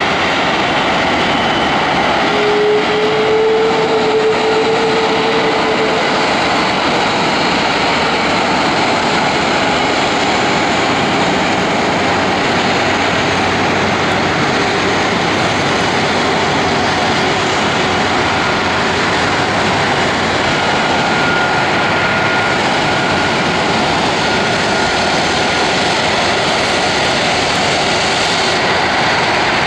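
Airbus A330-200 airliner's twin jet engines running at taxi power: a steady, loud rush of engine noise. A brief steady tone comes in a few seconds in, and a faint higher whine shows in the second half.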